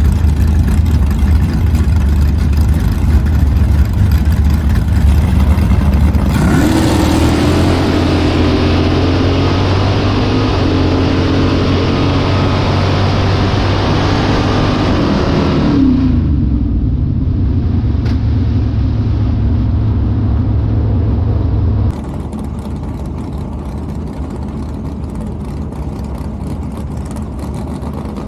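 Drag race cars launching and accelerating down the strip, a loud rising engine note that runs for about nine seconds before cutting away, over a steady low engine idle. The rumble carries on after the pass and drops in level about twenty-two seconds in.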